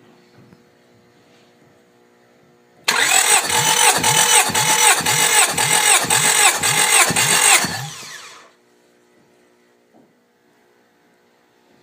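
Honda H23A 2.3-litre four-cylinder engine turned over by its starter motor for a compression test, without firing. It cranks in an even, pulsing rhythm of about two beats a second for roughly five seconds, then stops abruptly.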